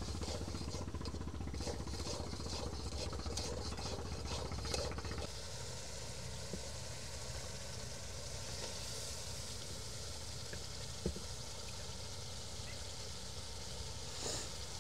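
Onion, garlic, green chilli and chilli powder sizzling in hot oil in a wok, with a metal spatula stirring and scraping through it for about the first five seconds. Then a steadier sizzling hiss as the masala fries and pieces of fish are laid into it, with a single sharp tap near the middle.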